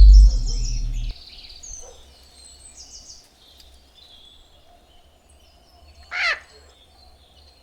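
A loud low hum that cuts off about a second in, then faint bird chirping, and about six seconds in a single loud caw-like bird squawk falling in pitch.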